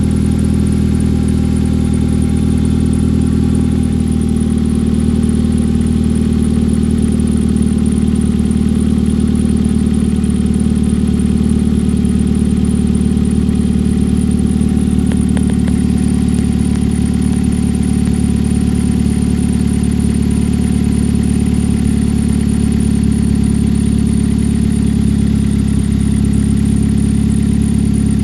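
2011 Jeep Patriot's 2.4-litre four-cylinder engine idling steadily, its note shifting slightly about four seconds in.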